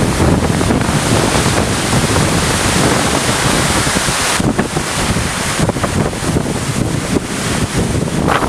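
Heavy rainstorm: a dense hiss of pouring rain with strong gusting wind buffeting the microphone.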